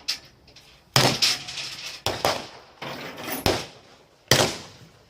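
Guns firing blanks in a re-enacted shootout: about six sharp shots at irregular intervals, each crack trailing off in an echo. The loudest come about a second in and just after four seconds.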